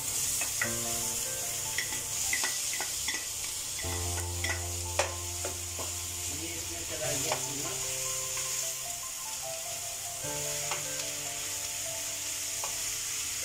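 Raw minced chicken and chopped onions sizzling in oil in a nonstick wok as a spatula stirs and scrapes them, with scattered short taps of the spatula against the pan.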